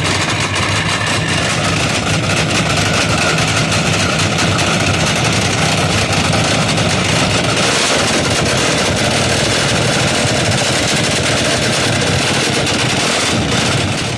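Car engine idling loudly and steadily, with a low, even rumble.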